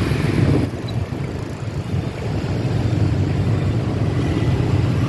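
Motorbike engine running steadily amid street traffic, a low rumble with a louder rush of noise at the very start that drops away under a second in.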